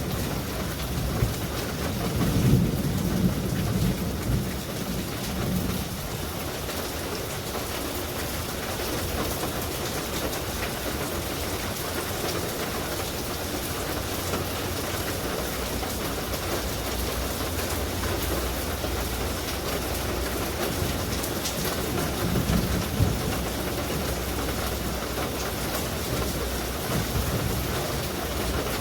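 Steady heavy rain falling, with low rolls of thunder about two seconds in and again past the twenty-second mark.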